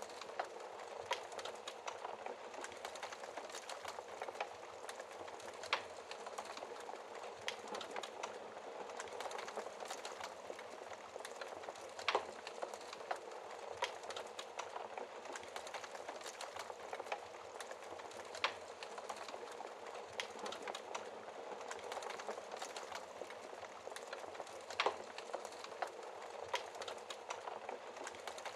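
Wood fire crackling in a fireplace: a steady soft hiss with frequent small crackles and a sharper pop every few seconds.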